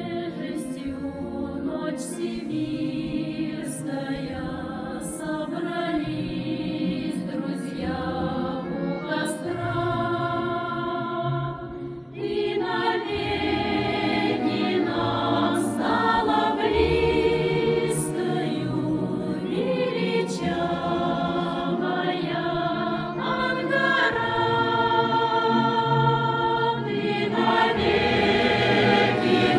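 A choir singing a slow song in sustained chords, with sharp sung consonants now and then; the music swells louder after a brief dip about twelve seconds in.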